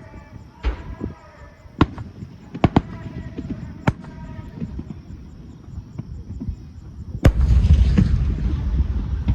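Aerial fireworks shells bursting: several sharp, separate bangs over the first four seconds, then a louder bang about seven seconds in followed by a sustained rush of noise from a dense volley of bursts.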